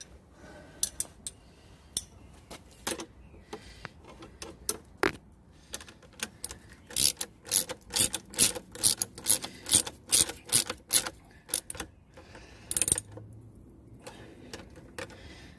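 Hand tools clicking and knocking on the motorcycle's metal exhaust as it is refitted, with a quick run of sharp clicks, about two or three a second, through the middle.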